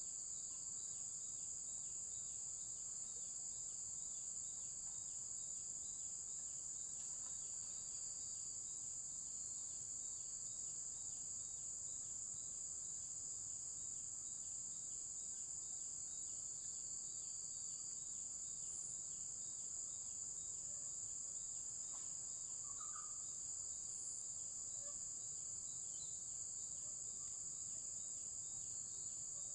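Chorus of insects, such as crickets or cicadas, keeping up a steady high-pitched drone, with an evenly pulsing call a few times a second beneath it. A couple of faint short calls come in about two-thirds of the way through.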